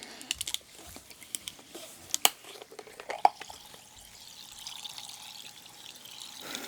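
A drink being poured into a glass, with a few sharp clicks and one short clink about three seconds in, followed by a soft, steady fizzing hiss.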